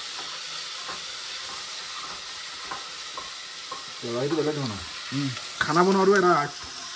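Vegetables sizzling as they fry in oil in a pan, with a few light clicks of a spoon stirring them. A voice speaks over the frying in the second half.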